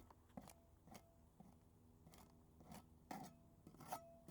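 A putty knife scraping old paint off weather-damaged wood, in about eight short, quiet strokes at an uneven pace, the last few a little stronger.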